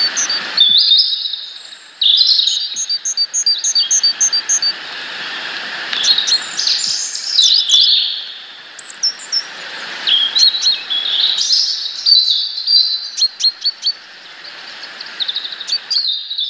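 Small songbirds chirping and calling at a feeder: quick series of short repeated high notes, with several birds' calls overlapping, over a steady outdoor hiss.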